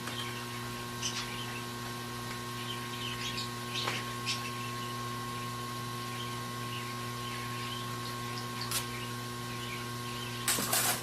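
Short, scattered scraping and squeaking as old adhesive is peeled and scraped off a MacBook Air's glued top case, with a louder cluster near the end, over a steady electrical hum.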